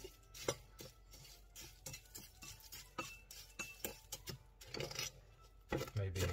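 A utensil stirring a dry mix of crushed cornflakes and cornmeal in a mixing bowl, clinking and scraping against the bowl in irregular taps, a few a second, growing busier towards the end.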